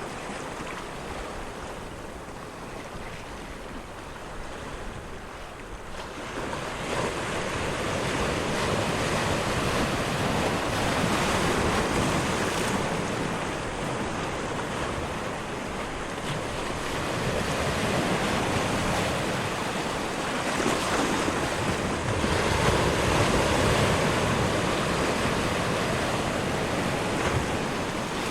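Ocean surf: waves washing in, the noise swelling and ebbing in slow surges several seconds apart.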